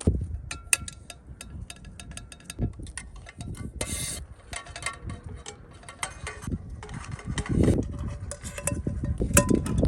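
Camping gear being handled: a string of small clicks and clinks, some with a brief metallic ring, and a short rustle about four seconds in.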